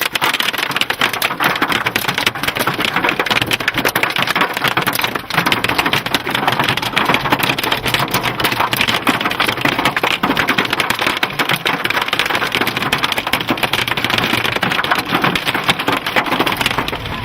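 Hail pounding on a chase vehicle, a dense, loud, continuous rattle of countless impacts, heard from inside the car.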